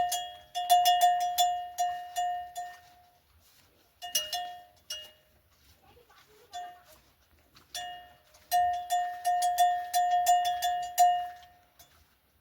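A small metal bell rung over and over at one pitch, in runs of quick strikes about three a second, with short pauses between the runs.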